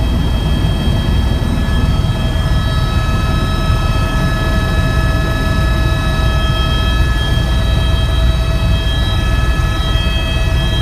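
Helicopter in flight heard from on board: a loud, steady low drone with several high, steady whining tones over it. A few of the whining tones come in about two and a half seconds in.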